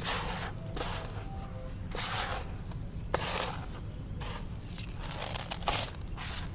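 Dry, dusty black concrete crumbling and crushing, in four or five separate gritty bursts with small sharp cracks among them.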